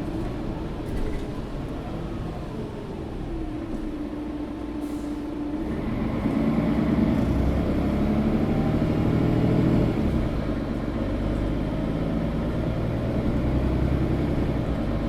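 Mercedes-Benz O530 Citaro facelift articulated bus heard from inside the passenger cabin while driving. The engine gets louder and rises in pitch from about six seconds in, eases off just before ten seconds, then runs on steadily.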